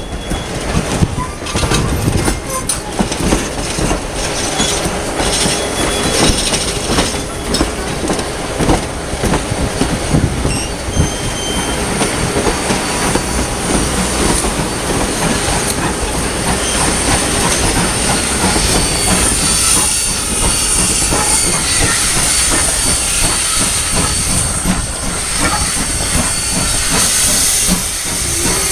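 Train cars rolling by, their wheels clicking and knocking over the rail joints with a steady hiss, over a low rumble of wind on the microphone.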